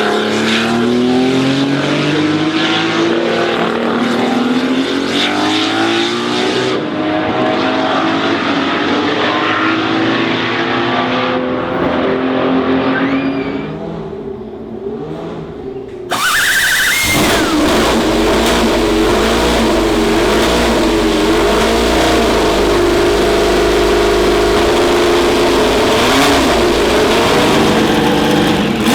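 Historic race car engines at speed. In the first half one engine climbs in pitch under hard acceleration, then fades away. About sixteen seconds in it is abruptly replaced by another race car engine running loud and steady, its pitch wavering slightly.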